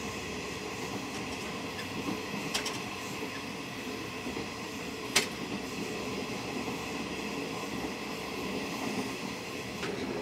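Moving sleeper train heard from inside the carriage: the steady rumble and rushing noise of the running train, with a faint knock about two and a half seconds in and a sharp click about five seconds in.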